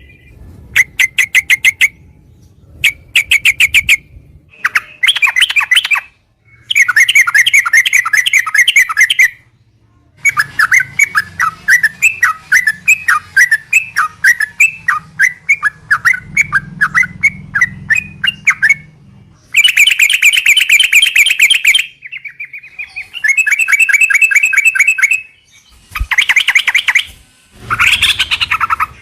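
Yellow-vented bulbul (trucukan) singing: bursts of rapid, chattering repeated notes, phrases of one to three seconds separated by short pauses.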